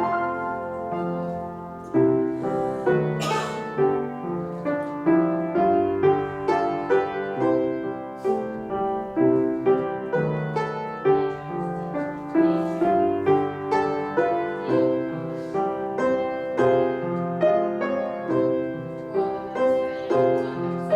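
Piano music with a steady, even beat, playing as accompaniment for a ballet class exercise.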